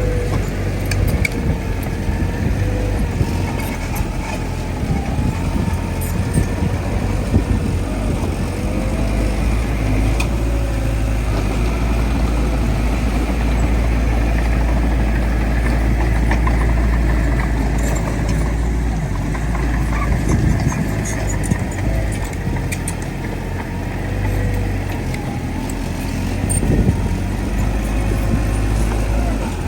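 Bulldozer's diesel engine running steadily with a deep drone. A thin wavering whine rides above it, with scattered clanks and clicks.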